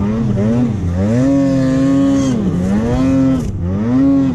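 Polaris Pro RMK 850 snowmobile's two-stroke engine being ridden through deep powder, its pitch rising and falling about four times as the throttle is worked.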